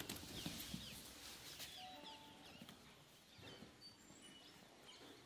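Faint chirping of small birds: quick high chirps and a few whistled notes, strongest in the first couple of seconds.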